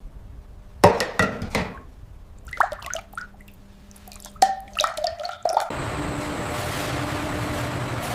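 Liquid splashing and dripping in a few short, irregular bursts. About six seconds in, a steady rushing noise with a low hum starts suddenly and keeps going.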